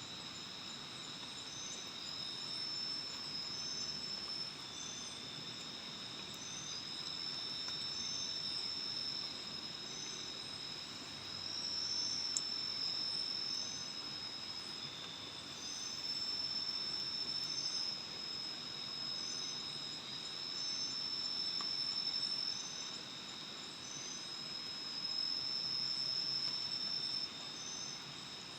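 A chorus of forest insects at night, shrilling steadily. Two high continuous whines overlap, with a higher short chirp repeating about once a second. The chorus swells and eases every few seconds.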